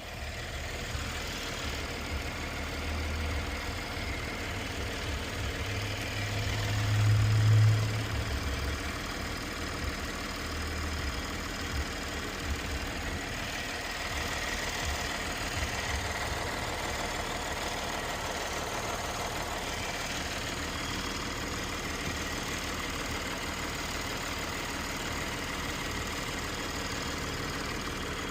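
2017 Chevrolet Camaro's GM V6 running at a steady idle, with a brief rise in level about seven seconds in. The engine has been started after a thermostat and coolant temperature sensor replacement and coolant refill, and is being run while it is checked for leaks.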